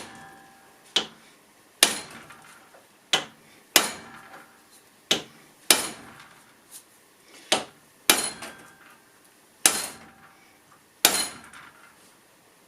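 Hammer blows on metal, about ten strikes spaced roughly a second apart, bashing the operating spindles out of a windscreen wiper linkage's arms. Some blows leave a brief metallic ring. The blows stop shortly before the end.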